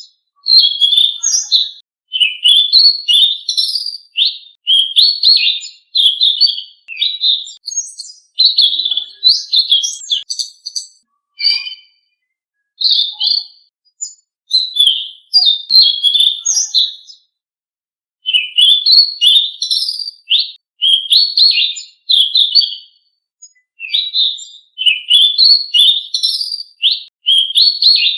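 Selendang Biru songbird singing: rapid, varied chirping and warbling phrases a second or two long, repeated with short pauses between them.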